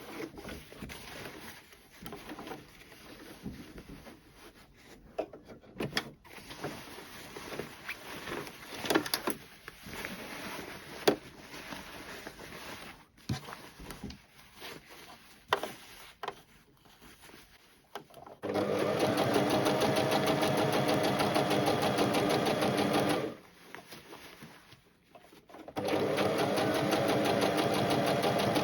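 Electric sewing machine stitching in two runs, one of about five seconds and then one of about three, with a short pause between. These follow a long stretch of light handling noise: rustling and scattered clicks.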